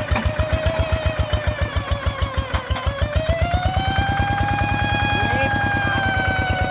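A tractor's engine chugging steadily at about seven beats a second. A steady high tone runs over it and rises in pitch about three seconds in.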